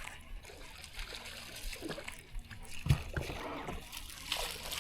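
Faint water sloshing against a small fishing boat, with a single low knock on the boat about three seconds in.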